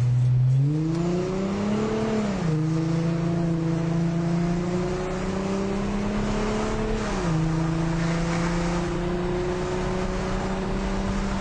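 Volkswagen Passat 2.5 V6 TDI diesel engine with a straight-through exhaust and the catalytic converter cut out, heard from inside the car as it accelerates. The engine note climbs and drops at an upshift about two seconds in. It climbs slowly again, drops at a second upshift about seven seconds in, then climbs once more.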